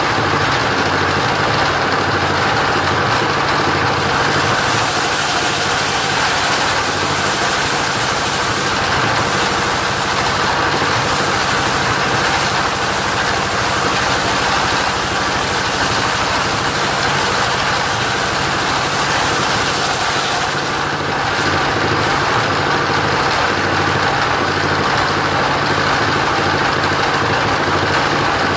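Engine-driven mobile sawmill running steadily while sawing coconut wood; a higher hiss strengthens about four seconds in and eases off around twenty seconds in.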